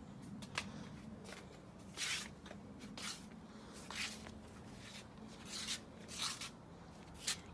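Short rustling scrapes, about one a second, with a few sharp clicks in between.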